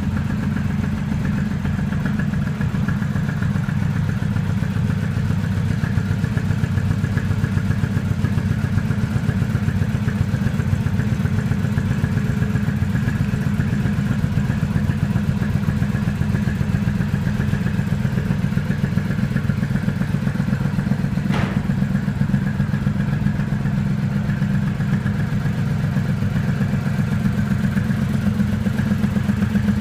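2006 Triumph Speedmaster's parallel-twin engine idling steadily with an even low pulse. There is a single brief click about 21 seconds in.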